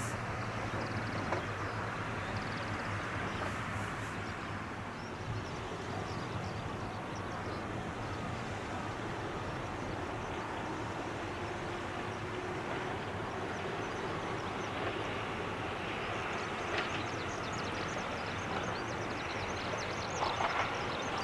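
Ohmi Railway electric train heard from a distance as it approaches: a steady low rumble and hiss, with wheel clatter over rail joints starting and growing louder near the end.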